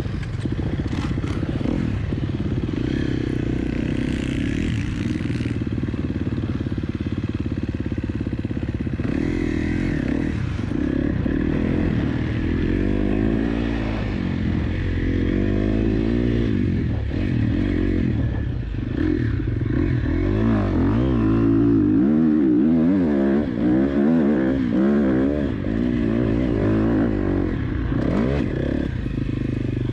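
KTM 250 SX-F four-stroke single-cylinder motocross engine being ridden hard, revving up and down over and over as the throttle is opened and closed.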